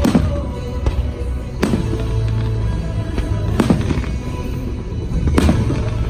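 Fireworks bursting with four loud bangs about two seconds apart, over a show music soundtrack from loudspeakers.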